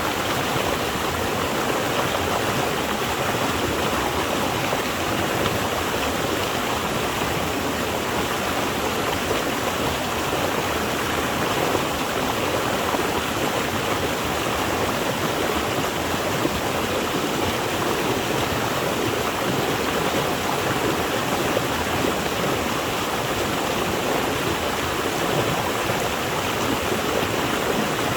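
Flowing water rushing in a steady, unbroken wash, even in level throughout.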